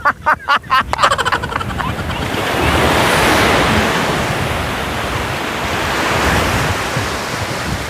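Sea surf washing in and out in two slow swells, with wind buffeting the microphone.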